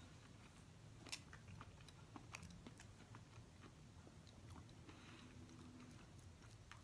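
A person chewing a mouthful of breaded chicken fritter, faint, with a few scattered soft mouth clicks.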